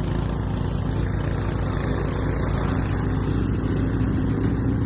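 Snowblower's small gasoline engine running steadily.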